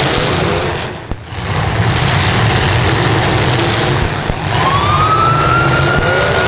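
Engines of several fullsize demolition derby cars revving hard in a dense mix as the cars push and spin their wheels in deep mud. Past the middle, a high whine rises and then holds steady.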